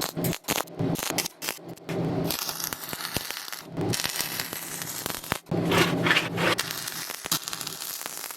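Arc welding a steel mount: a dense crackle that stops and restarts several times, with short breaks between the weld runs.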